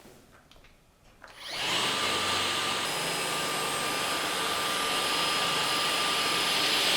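A few faint clicks, then a robot vacuum's motor spins up about a second and a half in and runs steadily with a whine carrying several high tones.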